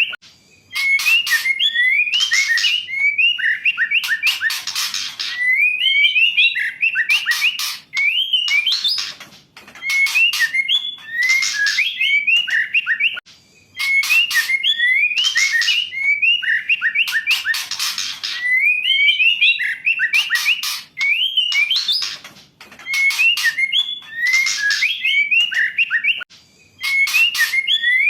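Female white-rumped shama calling: short phrases of sliding whistled notes mixed with harsh rasping notes, repeated over and over about every two seconds, with a few brief pauses.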